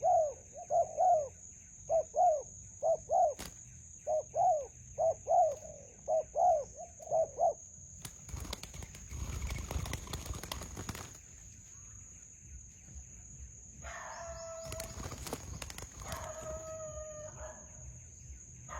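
Spotted dove cooing in a fast run of short rising-and-falling notes for the first seven seconds. Then a noisy rustling burst lasting about three seconds, and a rooster crowing twice near the end, over a steady high-pitched insect-like whine.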